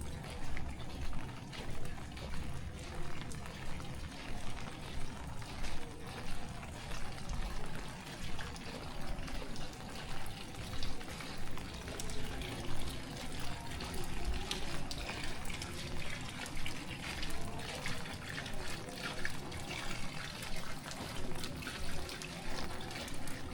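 Rain falling steadily, with a regular pulse of footsteps on the wet road about twice a second.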